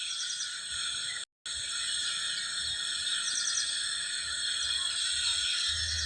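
A dense chorus of crickets trilling steadily, with a few short high chirps over it. The sound cuts out completely for a split second a little over a second in.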